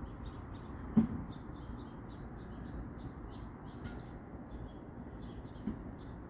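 Birds chirping, a steady run of short high chirps about four a second. A single sharp thump about a second in.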